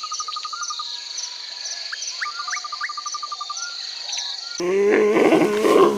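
Insects trilling steadily with a bird's short runs of rapid chirps. About three-quarters of the way in, this cuts abruptly to a louder pitched animal call.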